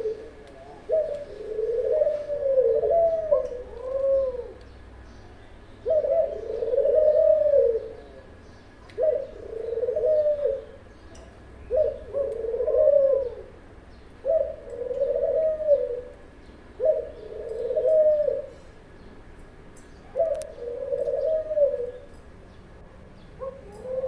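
Caged ghughu doves cooing: a run of about ten low coo phrases, each rising and falling over about a second, repeating every two seconds or so, at times overlapping.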